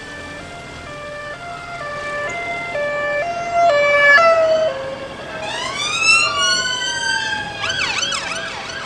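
Police siren sounding an alternating high-low two-tone that grows louder, then switching to rising sweeps and, near the end, a fast warble.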